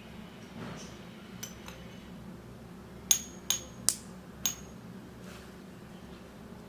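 Miniature cookware clinking: four light, sharp clinks with a short high ring, after two fainter ticks.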